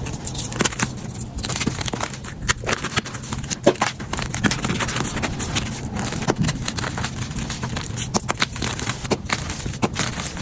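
Gym chalk being crushed and crumbled, a continuous dry crunching with many sharp, irregular crackles and snaps.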